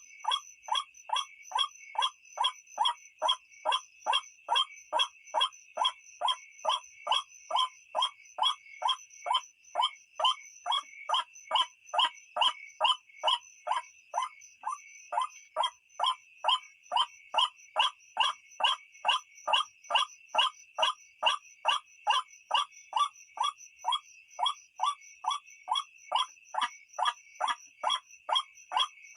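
White-breasted waterhen (ruak-ruak) calling over and over, one short croaking note about twice a second in an even, unbroken rhythm, over a steady high-pitched buzz.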